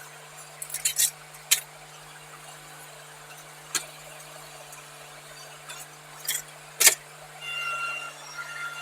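Tractor engine running steadily, with sharp clinks and knocks of concrete chunks striking metal, several close together about a second in and a loud one near the end. A high squeal follows just before the end.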